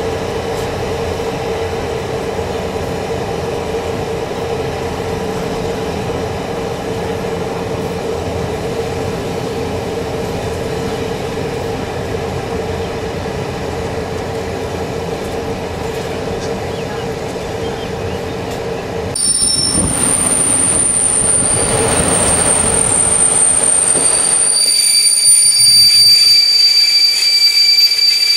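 Intercity passenger train running on the rails, a steady rumble with a low hum. About two-thirds of the way in, it grows louder as high-pitched wheel squeal sets in. The squeal is shrill and steady in several tones to the end.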